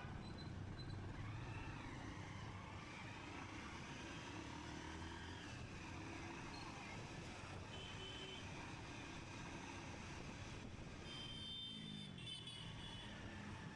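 Motorcycle riding along a road: steady engine and road rumble, its pitch rising and falling a little with speed. A short burst of higher tones, like another vehicle passing or sounding its horn, comes near the end.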